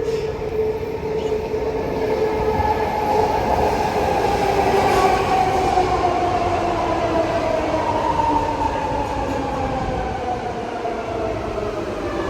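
Commuter train pulling into the station, its running rumble overlaid by a loud whine that slowly falls in pitch as the train slows down.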